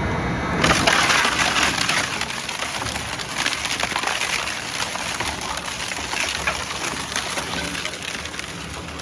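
Waste wood being broken up in an industrial wood chipper shredder: a dense run of rapid cracking and splintering that slowly gets quieter.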